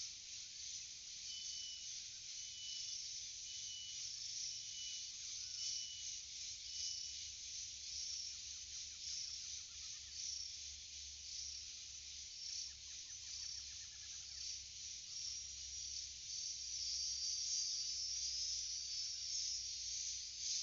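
Forest ambience: a dense, high insect chorus, with a short high note repeated six times about once a second in the first several seconds, and brighter high trilling calls joining about three-quarters of the way through.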